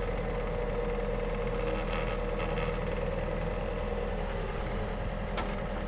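Yanmar ViO50 mini excavator's diesel engine running steadily, with a steady whine over the engine rumble.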